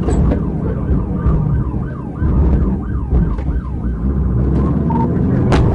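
Police car siren in a fast yelp, sweeping up and down about three times a second over the pursuing cruiser's engine and road noise. The yelp fades after about three and a half seconds, and the engine pitch climbs near the end.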